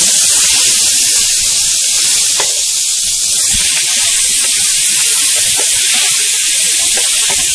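Stuffed whole green pea pods sizzling in mustard oil in a non-stick wok, with a steady loud hiss of frying. The pods are turned with a wooden spatula, giving a few light knocks and scrapes against the pan.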